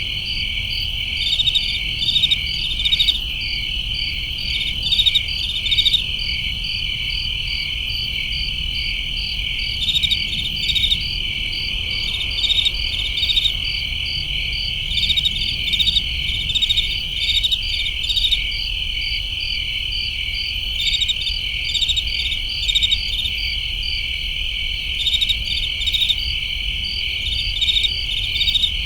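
Night chorus of crickets and other insects chirping. A steady high trill carries on throughout, with rhythmic chirps over it, some coming in quick clusters.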